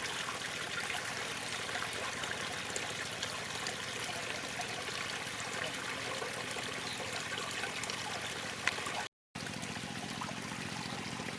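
Running water with a steady, even rush, broken by a split-second dropout about nine seconds in.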